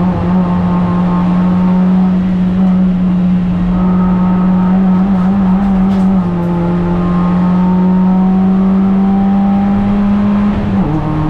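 Dacia Logan Cup race car's four-cylinder engine heard from inside the cabin, held at high revs under full load and climbing slowly in pitch as the car gathers speed. The engine note drops in pitch about half a second before the end.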